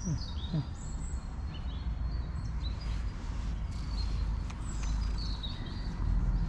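Small birds chirping in short, high calls, scattered through the whole stretch, over a steady low rumble.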